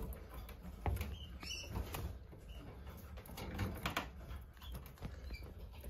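Canaries moving about in their cages: faint pattering and scattered clicks of feet and wings on perches and cage wire, with a few short high chirps.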